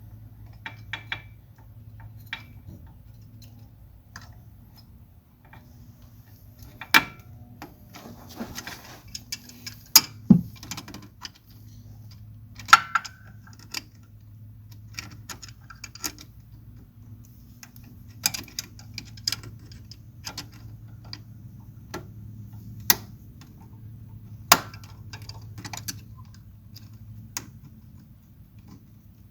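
Irregular metallic clicks and clinks of hand tools being handled on a tractor's hydraulic parts, about a dozen sharp ones spread out with softer rattling between, over a steady low hum.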